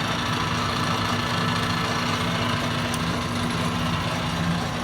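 Atlas TH54 metal lathe running under its electric motor, a steady hum of motor, belts and gearing; it is running really smooth.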